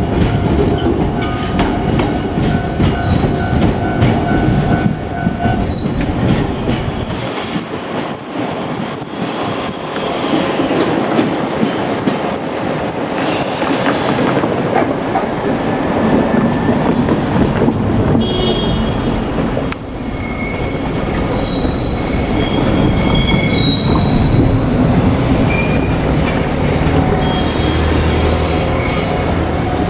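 JR Kyushu 817 series electric train running past, wheels clacking over rail joints with short high-pitched squeals, most of them in the second half.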